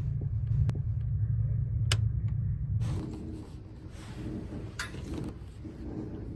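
A steady low rumble, like a vehicle heard from inside, with a couple of light clicks. About three seconds in it cuts off abruptly to quieter, more even background noise with faint clicks.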